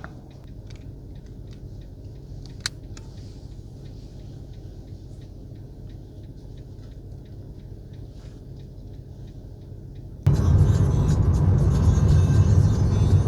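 Steady low rumble of a car moving along the road, heard inside the cabin, with a single sharp click a few seconds in. About ten seconds in, much louder music cuts in suddenly.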